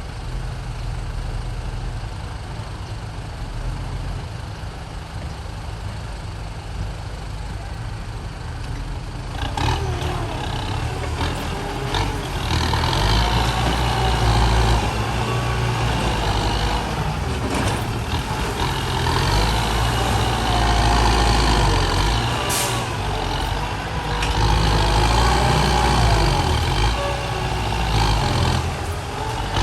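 Diesel dump truck engine running with a low rumble, growing louder from about ten seconds in, its pitch rising and falling as it is revved.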